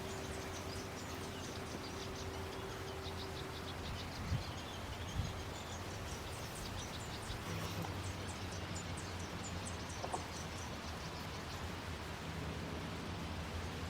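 Small birds chirping in quick runs of short high notes over a steady low hum, with two soft thumps about four and five seconds in.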